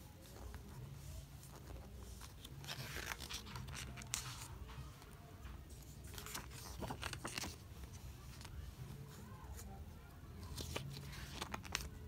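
Pages of a glossy photo book being handled and turned: paper rustling in several short bursts, about three seconds in, around seven seconds, and again near the end, over a low hum.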